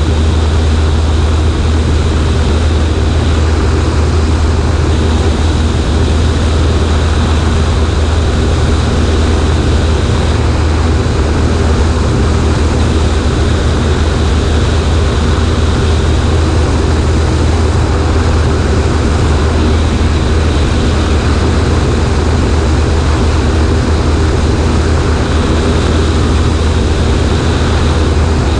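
Cessna 140A's Continental C-90 engine and propeller running steadily in flight, a constant low drone with a rush of air noise over it.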